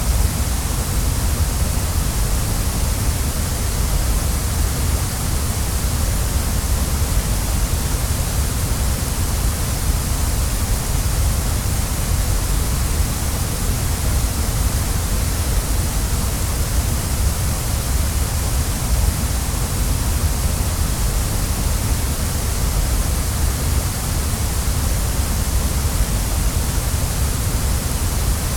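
Waterfall, its falling water rushing steadily and evenly, heaviest in the low end with a bright hiss on top.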